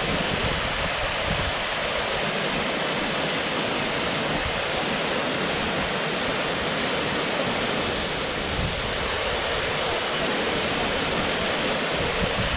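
Steady rush of water falling from a dam and the river flowing below it, an even constant roar.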